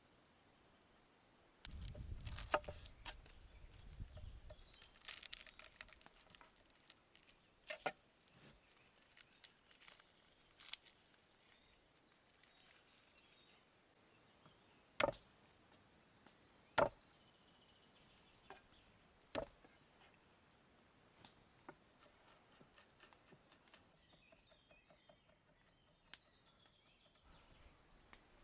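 Hands handling ingredients while making chimichurri sauce: a few seconds of rustling and crinkling, as of herbs or wrapping being torn and handled, then scattered sharp knocks, the loudest three spaced about two seconds apart in the middle.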